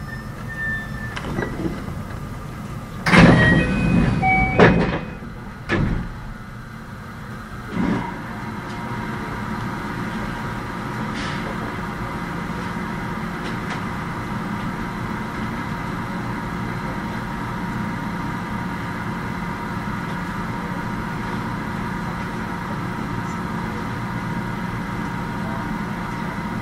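Inside a JR West 521 series electric train car: a few loud bangs and rushes of noise about three to six seconds in, then a steady electrical hum with several unchanging high tones.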